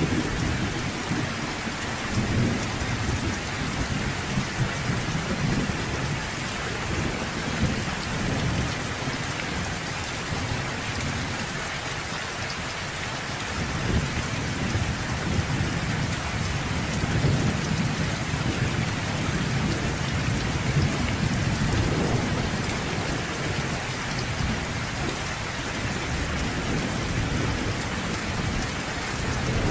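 Steady rain of a thunderstorm, with low rolling thunder rumbling underneath; the rumble eases briefly about halfway through, then builds again.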